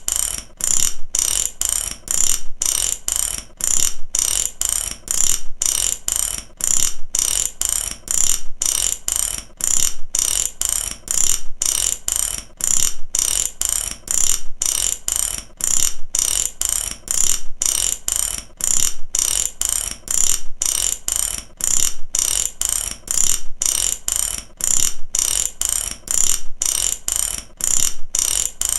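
Mechanic's ratchet wrench clicking rapidly, its pawl ticking over the gear teeth in quick runs with short breaks about once a second.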